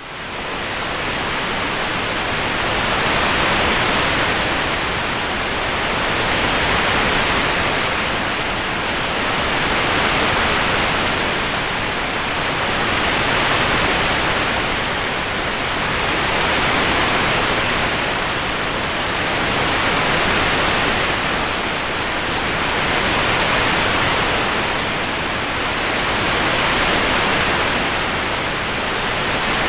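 Steady rushing hiss of a rain-sound track, fading in at the start and then swelling and easing about every three seconds.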